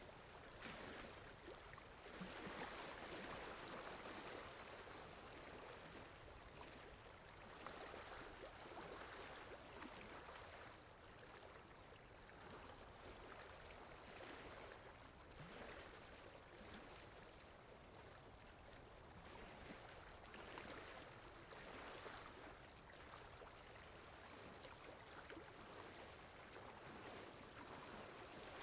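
Rain falling: a faint, even hiss that swells and eases every few seconds.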